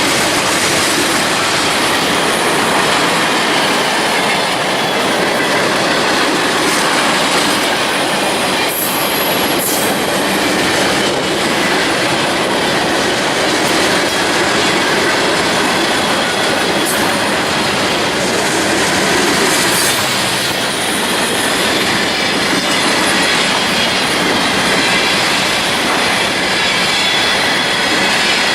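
Railroad cars rolling past at close range: a loud, steady noise of steel wheels on rail, with a faint high wheel squeal and a few clicks from the rail joints.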